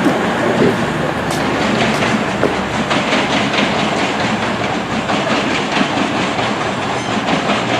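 Train running along the track: a steady rumble and hiss, with wheels clicking over the rail joints in the middle seconds.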